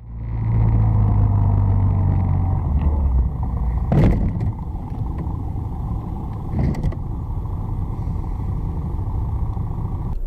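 Car engine and road noise while driving, with a sharp knock about four seconds in and a second, weaker one near seven seconds.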